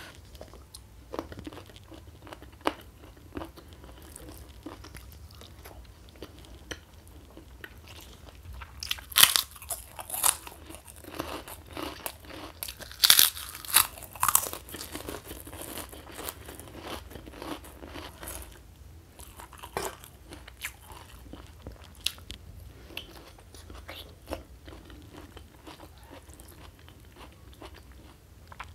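Close-miked eating: chewing with crisp, crunchy bites of kerupuk crackers, the loudest crunches bunched in two clusters around the middle.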